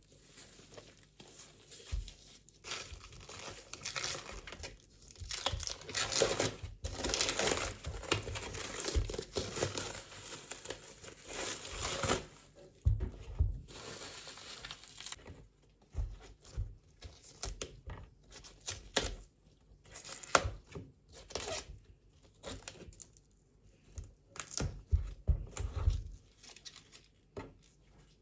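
Packaging crinkling and tearing by hand for several seconds, followed by scattered light clicks, taps and soft knocks.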